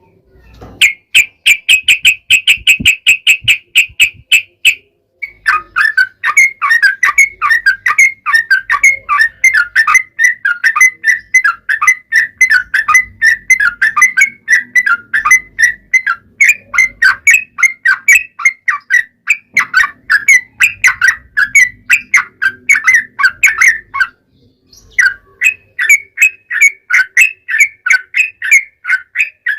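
Yellow-vented bulbul (trucukan) in loud, fast song: rapid runs of short, clear notes, with a long unbroken rolling chatter that stops briefly near the end and then starts again. It is a lure call meant to make other bulbuls answer.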